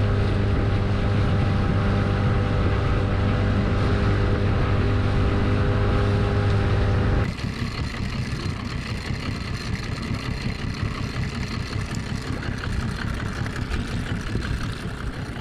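Outboard motor running at a steady speed with an even, loud drone. About seven seconds in the sound changes abruptly to a quieter, rough, uneven noise.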